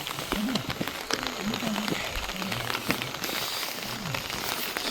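Rain falling, with scattered drips and taps throughout, under faint voices talking in the background.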